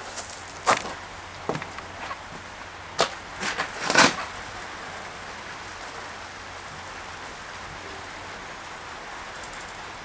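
Steady hiss of rain, with a handful of sharp knocks in the first four seconds, the loudest about four seconds in.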